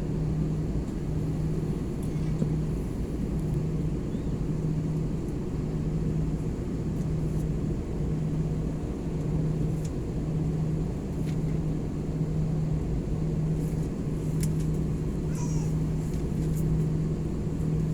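Airliner cabin noise: a steady low rumble with a low hum that swells and fades about once a second.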